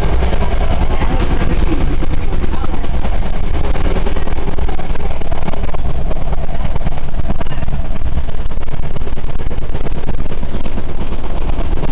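Inside a commuter rail coach running at speed: loud, steady wheel-and-rail rumble with a quick, regular clicking rhythm over it.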